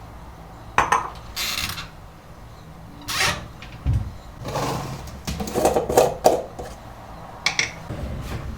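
Kitchenware being handled: a string of clinks and knocks from cups, dishes or cutlery set down and moved, with a few short scrapes.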